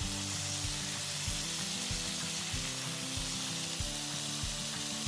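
Chicken fillets sizzling steadily as they fry in hot cooking oil in a pan, with soft background music and a steady beat underneath.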